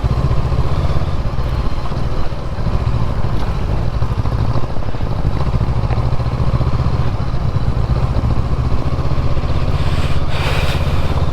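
Motorcycle engine running steadily on a rough unpaved stretch, with a brief rush of noise near the end.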